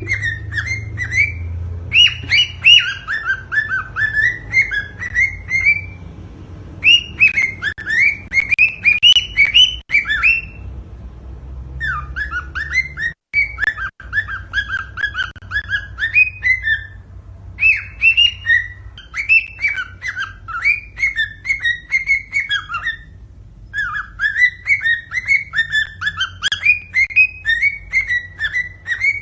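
Cockatiel singing a courtship song: phrases of quick, chirping whistled notes, each a few seconds long, with short pauses between them.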